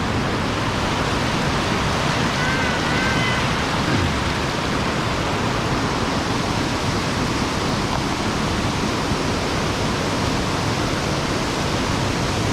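Steady, even rush of water pouring over a sabo (erosion-control) dam on a mountain stream. A brief, faint, high wavering whistle comes about two and a half seconds in.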